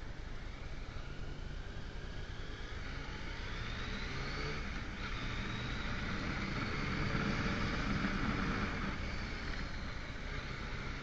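Motorcycle engine running on the move with wind and road noise. The engine note rises in pitch and grows louder through the middle, then eases off about two-thirds of the way through.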